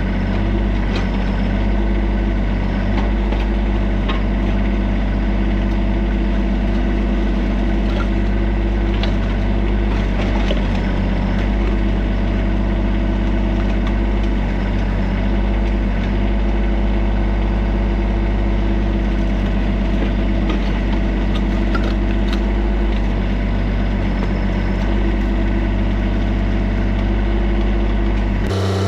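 TYM compact tractor's diesel engine running steadily, with a few faint knocks over it. The sound changes abruptly just before the end.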